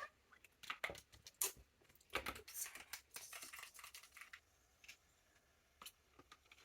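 Faint scattered clicks and short breathy puffs, busiest in the first few seconds and sparse after, as the bubble wand and straw are handled and blown through.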